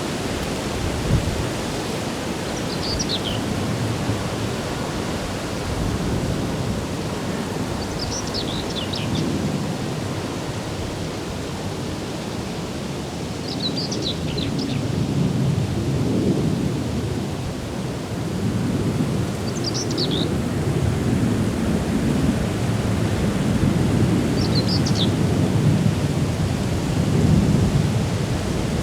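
Outdoor ambience: a steady rushing noise with a low, gusting rumble, and a songbird repeating a short, high, falling phrase about every five seconds, six times in all.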